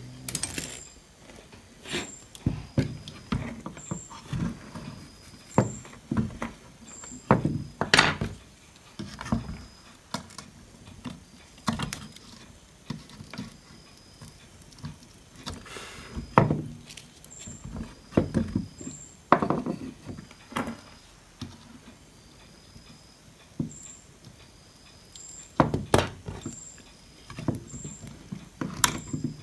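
Irregular clicks, taps and knocks of hand tools and small parts being handled on a repair bench, a few sharper knocks standing out.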